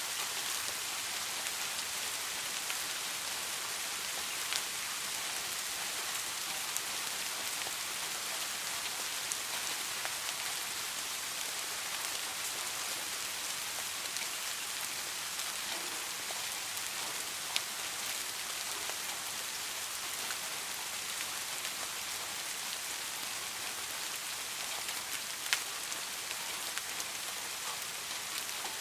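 Steady rainfall: an even hiss of rain with scattered individual drops ticking sharply on a surface, a couple of them standing out.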